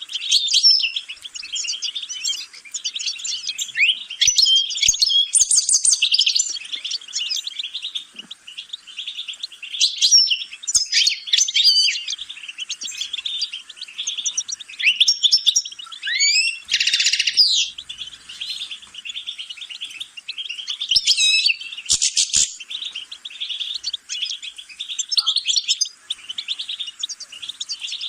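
European goldfinch singing a long, continuous twittering song of rapid high trills, with louder buzzy phrases now and then.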